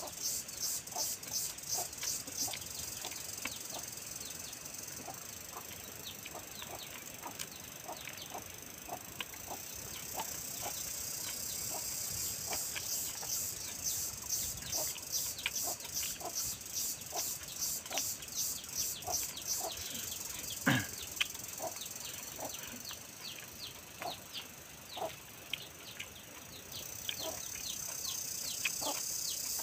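Mouth sounds of a man eating rice and curry by hand: short wet chewing and lip-smacking clicks, about one or two a second, over a steady high-pitched pulsing insect chorus. One louder single sound stands out about two-thirds of the way through.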